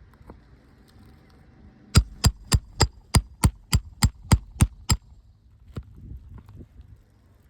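Roofing hammer striking about eleven times in quick, even succession, roughly three blows a second, each a sharp strike; it starts about two seconds in and stops about five seconds in.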